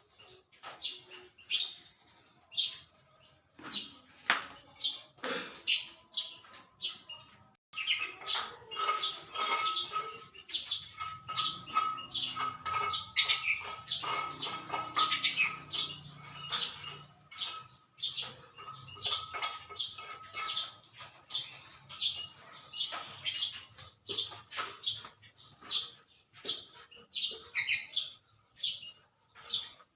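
Small birds chirping over and over, a dense run of short, high calls that keeps going. It grows busier about eight seconds in.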